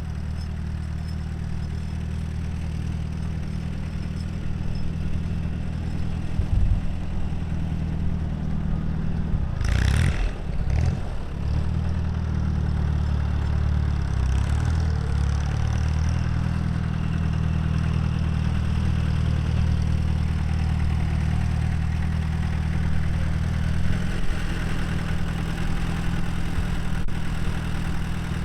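1951 Allis-Chalmers Model B tractor's four-cylinder gasoline engine running steadily at idle, with a brief louder burst about ten seconds in.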